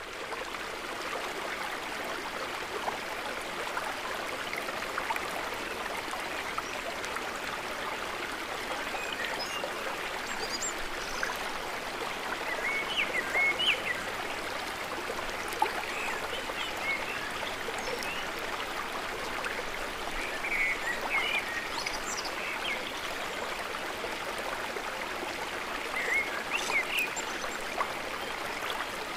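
Steady gurgling, trickling water of a lake shore, with short chirping calls now and then from about a third of the way in.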